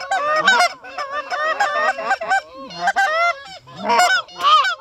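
A flock of geese calling, many short honks and clucks overlapping one another with hardly a break.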